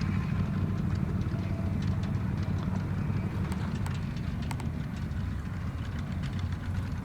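Kubota ZT155 walking tractor's single-cylinder diesel engine running at a steady low idle, a low pulsing rumble with a few faint clicks over it.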